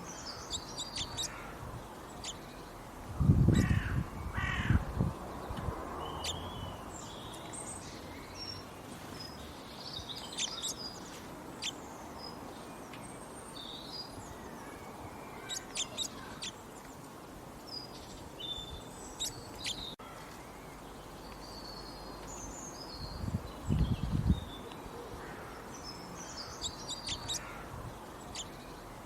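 Birds chirping and tweeting in short scattered calls throughout, with two louder, harsher and lower bursts, one about three seconds in and one near the end.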